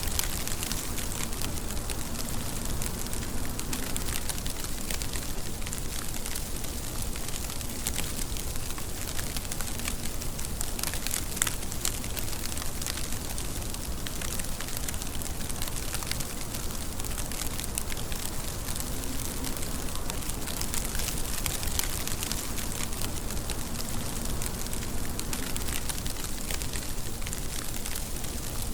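Steady rainfall: an even hiss of rain with many small drop ticks scattered through it, unchanging throughout.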